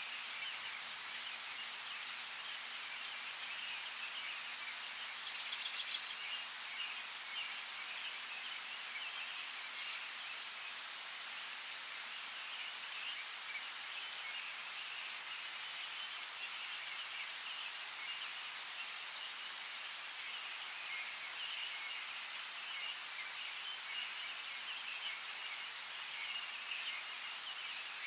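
Steady rain hiss with small birds chirping throughout, and a quick run of rapid trilled bird notes about five seconds in.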